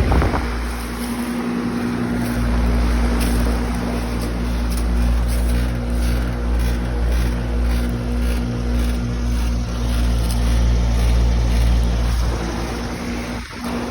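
2017 Bryant Legacy Line 2.5-ton heat pump outdoor unit running: a steady hum over a low rumble and rushing air.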